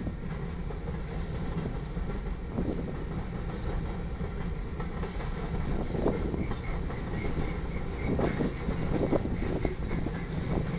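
Freight cars of a mixed manifest train rolling past: a steady rumble of steel wheels on rail, with louder knocks about six seconds in and a few more near the end.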